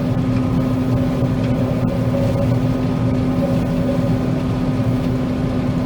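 John Deere 9500 combine running steadily while cutting soybeans, heard from inside the cab: an even mechanical drone with a constant low hum.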